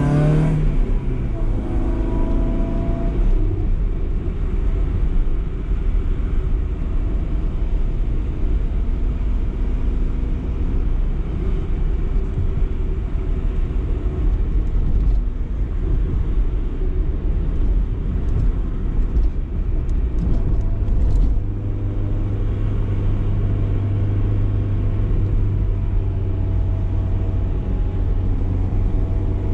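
BMW E30 318is four-cylinder engine driving through town: its revs drop in the first couple of seconds after an acceleration, then it runs on at steady low load with road and tyre rumble, the engine tone turning steadier and stronger about two-thirds of the way through.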